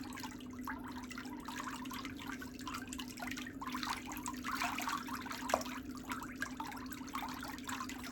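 Water trickling and splashing in small irregular bursts, over a steady low hum.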